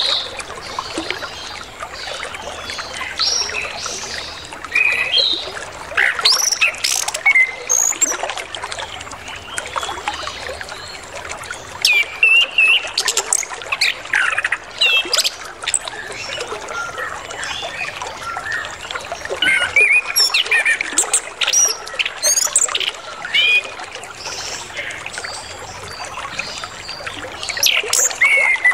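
Orange-headed thrush singing a varied run of whistles and chirps that sweep up and down, over the steady trickle of flowing water.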